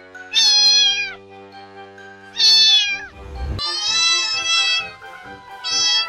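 A cat meowing four times in high calls that drop in pitch at the end; the third is the longest and held steadier. Background music with sustained low notes plays underneath, and a brief low rumble comes about three seconds in.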